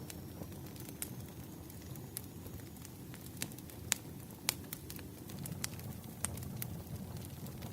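Wood fire crackling: a low steady rumble of burning logs with scattered sharp pops, two louder pops about halfway through.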